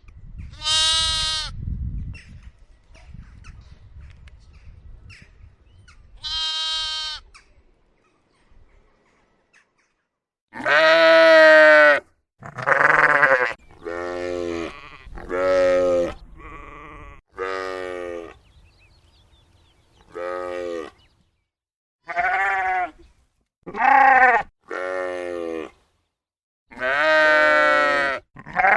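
Sheep and lambs bleating. Two high-pitched bleats come in the first seconds and another around a quarter of the way in, then from about ten seconds a quick run of lower bleats follows, one after another.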